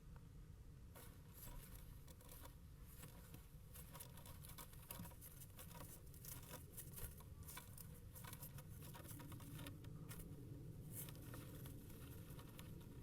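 Faint, irregular scratching and tapping inside a kestrel nest box, starting about a second in, over a low steady hum.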